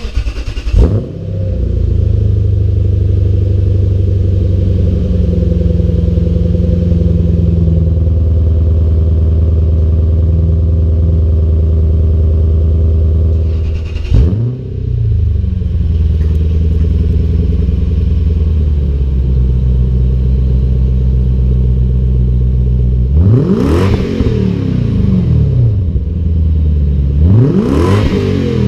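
2006 Lexus GS430's 4.3-litre V8 through a custom quad-muffler exhaust, firing up on a cold start and settling into a steady, deep idle. Near the end it is revved twice, each rev rising and falling quickly back to idle.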